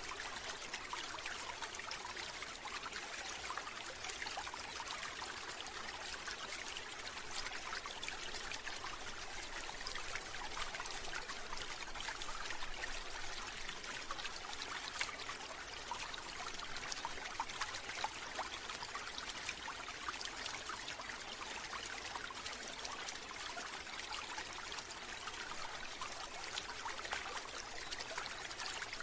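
Steady flowing and trickling water, a continuous splashing hiss with small droplet ticks throughout.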